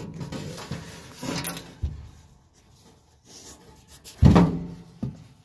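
Knocks and handling noises of dryer parts being worked by hand while the drum belt is fitted, with a loud thump about four seconds in.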